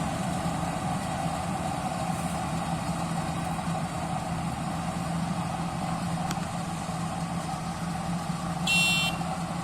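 Vehicle engine running steadily. Near the end a short, high-pitched electronic horn or beeper sounds once.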